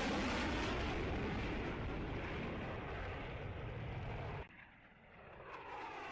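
Aircraft engine noise from a plane flying past, with a sweeping, shifting tone. It cuts off abruptly about four and a half seconds in, and a similar aircraft sound swells back up near the end.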